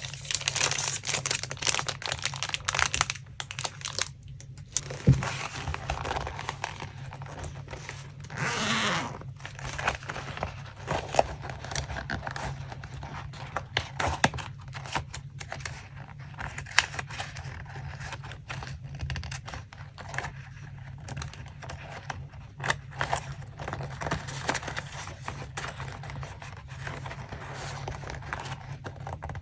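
Paper being handled by hand: rustling, crinkling and being torn in short pieces, with one longer rip about nine seconds in.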